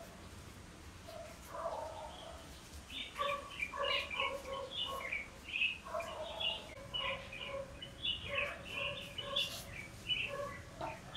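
Birds calling: short pitched notes, a few scattered at first, then coming in quick runs from about three seconds in.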